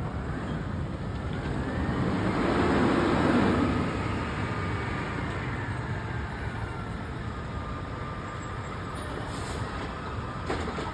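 Garbage truck driving past, its engine and road noise swelling to the loudest point about three seconds in and then easing off, with a faint whine gliding slowly down in pitch.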